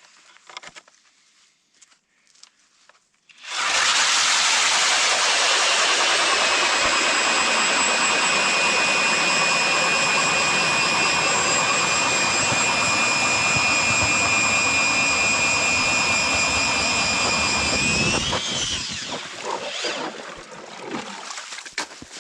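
Powered ice auger drilling a hole through lake ice. It starts abruptly a few seconds in and runs with a steady high whine for about fifteen seconds, then rises briefly in pitch and cuts off.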